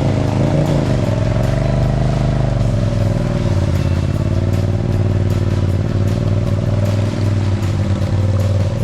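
Side-by-side UTV engine running under load, its revs rising and dipping in the first second or two and then holding steady.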